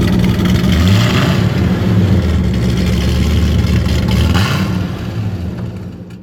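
Corvette C6 Z06's 7.0-litre LS7 V8, breathing through ARH headers and a Borla Stinger exhaust, running loud at a fast idle. The revs rise briefly about a second in and again near four seconds, then ease off near the end.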